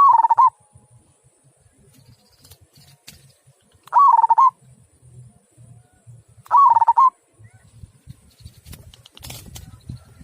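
Local perkutut (zebra dove) cooing: three short, loud calls of about half a second each, one at the start, one about four seconds in and one about two and a half seconds after that. This is the deep 'kung' voice prized in local perkutut.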